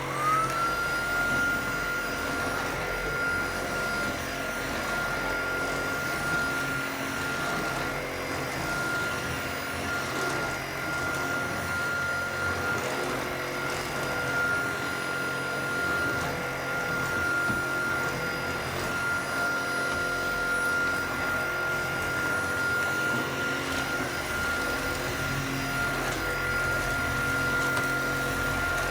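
Tineco cordless stick vacuum switched on and running on a hard floor: its motor whine rises briefly in pitch as it spins up, then holds steady and high over a rush of suction.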